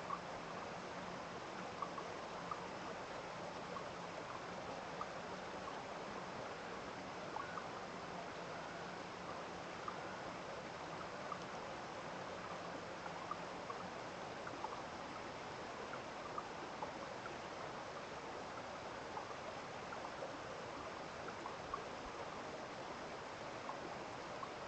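A small stream running steadily, with frequent small plinks and drips of water through the flow.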